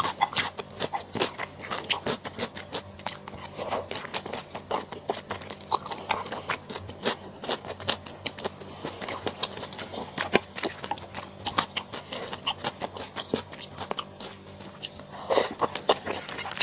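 Close-miked chewing and biting of mala xiang guo: a steady run of crisp crunches and wet mouth clicks, several each second.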